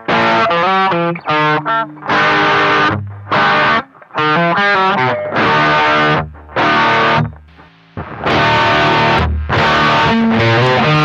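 Distorted electric guitar playing a chord riff in short stabs, with brief gaps between the chords and a longer pause a little before the end.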